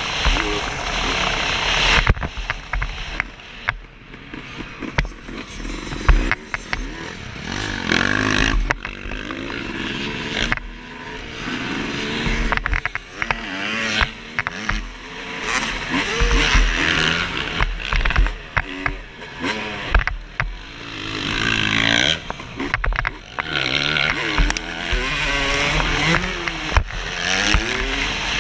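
Suzuki RM250 two-stroke single-cylinder motocross bike revving up and down over and over as it is ridden around the track, with a few sharp knocks along the way.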